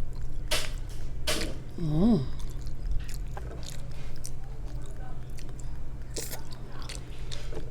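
A person eating spaghetti close to the microphone: wet chewing and mouth smacks, with a short "mmm" of enjoyment about two seconds in.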